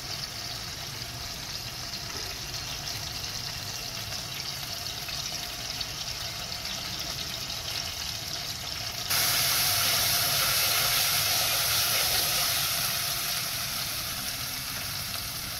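Ginger-garlic paste sizzling steadily in hot oil. About nine seconds in the sizzle suddenly gets louder and brighter, then slowly dies back down.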